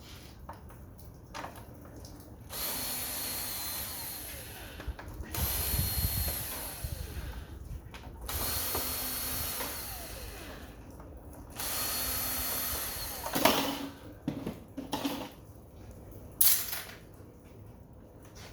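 Cordless drill-driver running in four short spurts of about two seconds each, backing screws out of an air-conditioner's housing, followed by a few sharp clicks and knocks.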